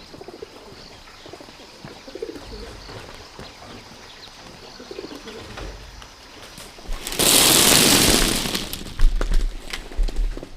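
Doves cooing softly in repeated low calls, then a loud rush of noise lasting about a second and a half, about seven seconds in, followed by a few sharp knocks.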